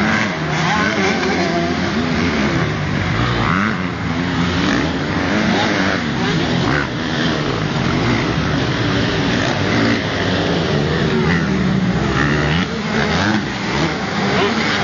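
Several motocross bikes racing, their engines revving hard with overlapping pitches that rise and fall continuously.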